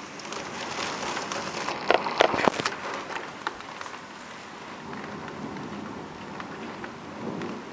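Rain falling and striking a window pane, a steady hiss with scattered drop hits. About two seconds in, a quick burst of sharp cracks is the loudest part.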